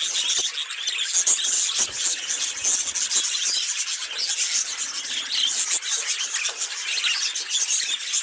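Several budgerigars chattering and warbling together: a continuous, busy stream of high-pitched chirps, squeaks and rapid twittering.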